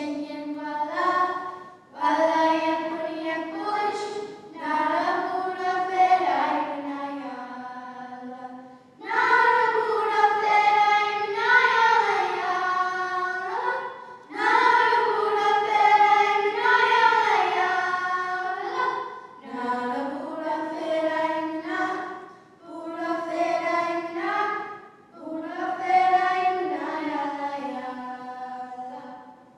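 Young women singing together in phrases of a few seconds, with short breaks between the lines.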